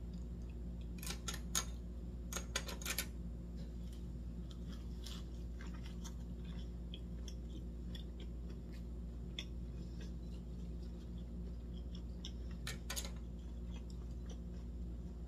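Close-up chewing of a leaf wrap of boiled pork, with clusters of crisp clicks and crunches between one and three seconds in and again near the end, over a steady low background hum.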